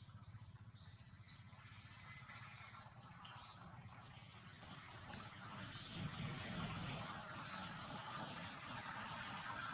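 Short, high, rising chirps repeated about every one to two seconds, over a steady high-pitched insect drone.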